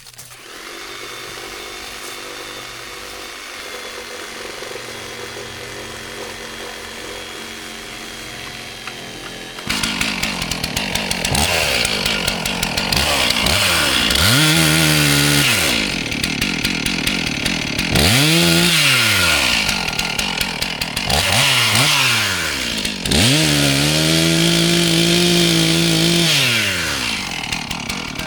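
Gas chainsaw running at a steady idle, then about ten seconds in it gets louder and is revved up and down again and again, each rise and fall lasting a second or two, as it cuts up a fallen tree.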